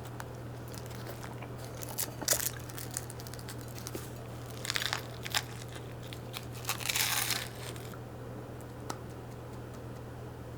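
Crinkling and tearing sounds of hands handling something during kitchen prep, in three short bouts with a few single clicks between, over a steady low hum.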